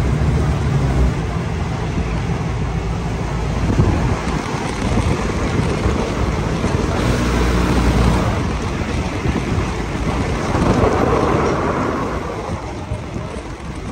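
Diesel passenger train running along the track, heard at an open window: a steady rumble of wheels on rails mixed with rushing wind on the microphone, easing off somewhat near the end.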